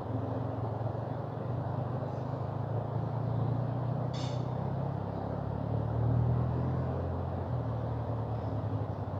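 Steady low rushing of a mountain river's flowing water. About four seconds in there is one brief high-pitched sound.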